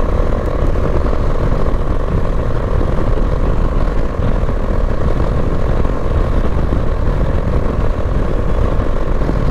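Bajaj Dominar 400's single-cylinder engine running steadily while riding at speed, under a constant rush of wind. The owner says the engine has started making a bad noise.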